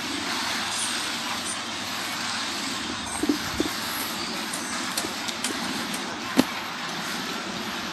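Steady wash of sea surf and breeze, with a few sharp clicks or knocks, the loudest about six seconds in.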